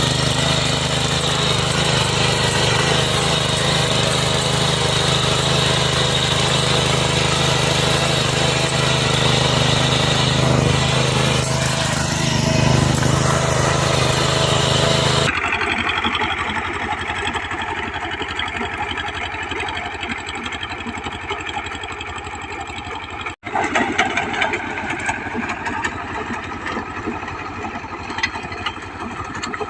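Walking tractor engines running. One engine runs steadily for the first half. After an abrupt cut, a different engine runs more quietly, with another short break in the sound about three-quarters of the way through.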